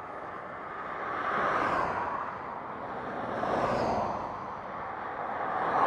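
Highway traffic passing close by: vehicles rush past one after another, each swelling and fading, about three in a row.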